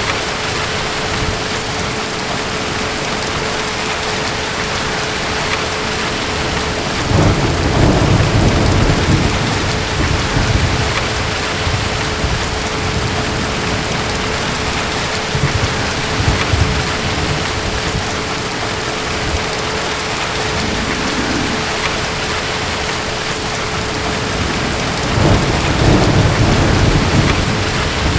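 Steady heavy rain with two rolls of low thunder rumbling, one about a quarter of the way in and another near the end.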